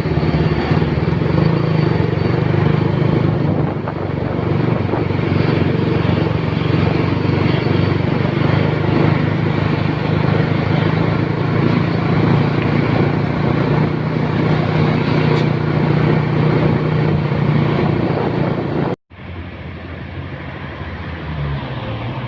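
Truck engine running with a steady, loud drone; about 19 seconds in it cuts off abruptly and a quieter engine sound follows.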